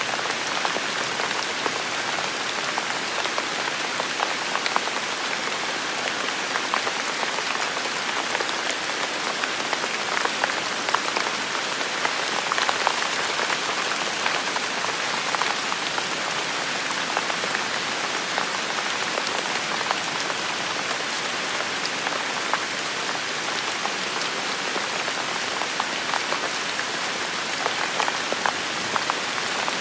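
Heavy rain falling steadily, a dense even hiss with many close drop impacts pattering through it.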